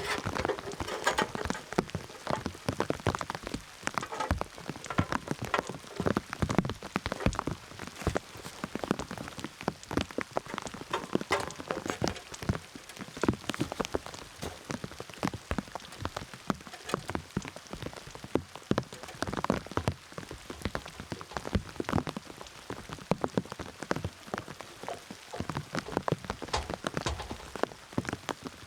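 Steady rain falling, with a dense, irregular patter of close drops striking a surface.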